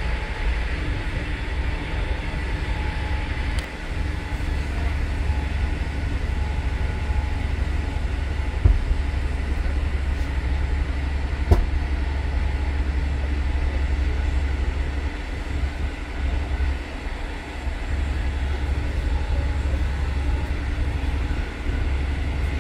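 Steady low rumble of a moving passenger train heard from inside the carriage, with two sharp knocks about three seconds apart in the middle.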